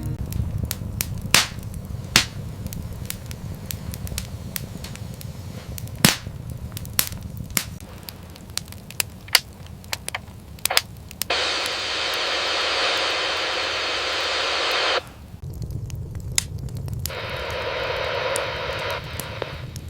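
Fire crackling with irregular sharp pops over a low rumbling roar, then two stretches of steady rushing hiss, about four seconds and two seconds long, that start and stop abruptly.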